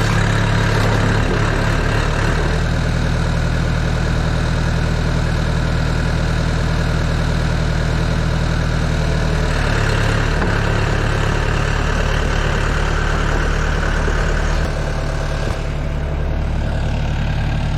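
Yanmar Vio80 excavator's diesel engine running steadily at a low speed, its note shifting slightly a few times.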